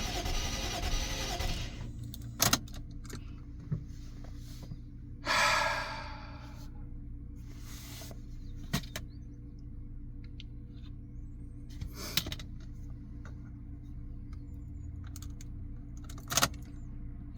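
Lexus IS 200 engine being cranked and started after foam carburettor cleaner was left to soak in the cylinders, loud for the first two seconds. It then runs with a steady low hum. A brief noisy surge comes about five seconds in, and scattered sharp clicks follow.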